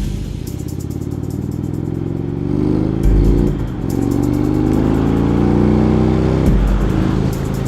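Indian Chief Vintage's big air-cooled V-twin accelerating under load, its note climbing in pitch and dropping back twice as it shifts up a gear, about three seconds in and again near the end.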